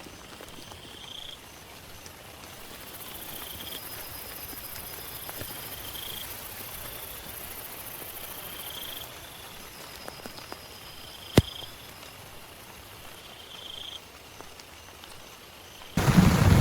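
Quiet forest ambience of calling night creatures: a short chirp repeats about every two and a half seconds over a faint pulsing trill, with a high steady buzz in the middle stretch. A single sharp click comes about two-thirds through. In the last half second, loud heavy rain with thunder cuts in suddenly.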